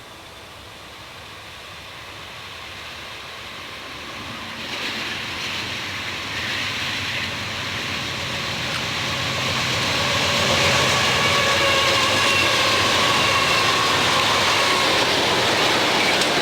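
Freight train approaching on the rails, its rumble growing steadily louder for about ten seconds and then holding at full loudness as it draws close.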